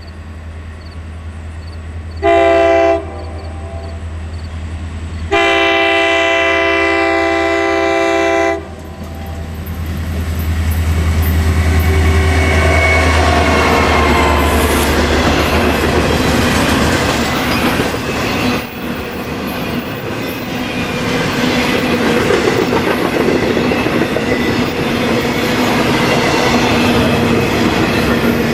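Diesel freight locomotive approaching with a low engine drone, sounding its multi-chime horn once briefly and then in one long blast. Then the train passes, wheels clacking over rail joints and cars rumbling by steadily.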